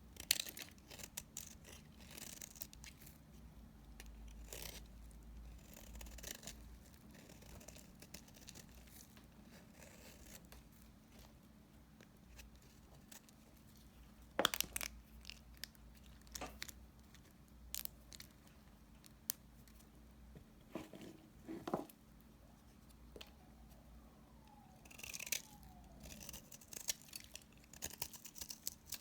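Knife cutting through leftover pieces of bar soap: scattered crisp cuts and crumbling crunches, with a few sharper snaps and a denser stretch of scraping near the end.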